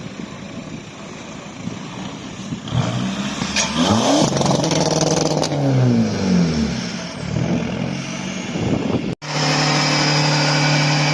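Car engine revving hard: its pitch climbs and then falls back between about three and seven seconds in. After a sudden cut, an engine is held steady at high revs.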